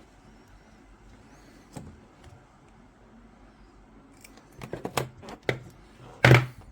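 Metal hand instruments being handled, giving scattered small clicks and clinks: a quick cluster past the middle and one louder knock near the end.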